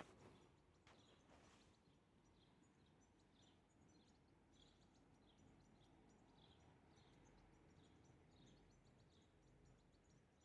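Faint, repeated short bird chirps, a little over one a second, over a low background hiss.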